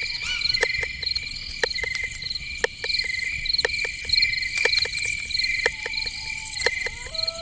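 Crickets chirping steadily in fast pulsed trills, with irregular sharp clicks through the chorus. A short whistled note about six seconds in, and two longer steady calls starting near the end.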